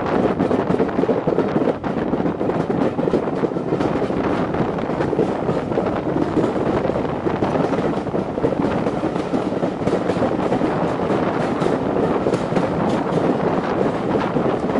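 Steady wind rushing over the microphone held out of a moving heritage steam railway carriage, mixed with the running noise of the coaches on the track.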